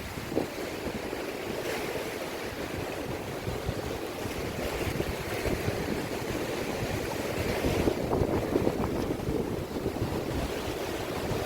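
Sea waves washing against a rocky shore, with wind buffeting the microphone in gusts that grow a little stronger toward the end.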